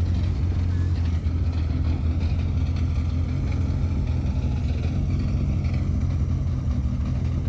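Rally car engines running steadily as the cars move slowly past.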